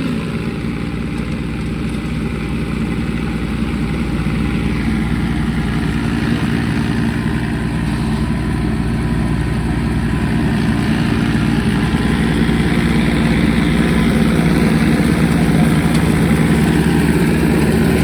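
Tractor engine running steadily, getting gradually louder through the stretch.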